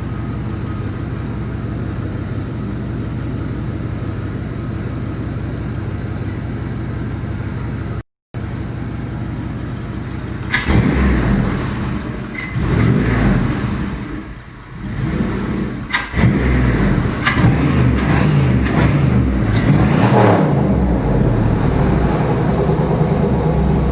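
Chevy 5.3L Vortec LS V8 (LM7) idling steadily on an engine run stand. About ten seconds in it gets noticeably louder and rougher, with a few metallic clanks, because an exhaust pipe has come out and the engine is now running with open exhaust.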